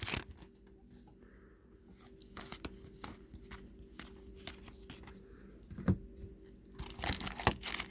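Trading cards being handled: scattered soft taps and rustles of card stock, with a sharper tick about six seconds in and a cluster of rustling near the end, over a faint steady hum.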